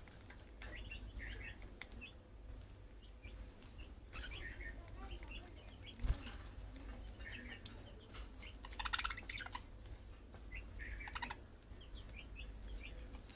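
Budgerigars chirping and chattering in short scattered calls, with a denser run of chatter about nine seconds in. A sharp knock comes about six seconds in.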